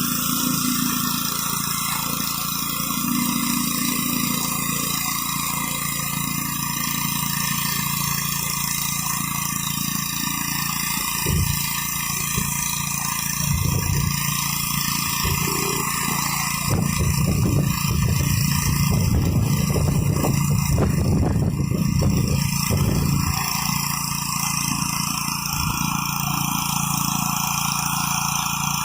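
Gas-engine pressure washer running steadily, with the hiss of the high-pressure water spray over it. Through the middle stretch, irregular low rumbling comes and goes over the steady engine note.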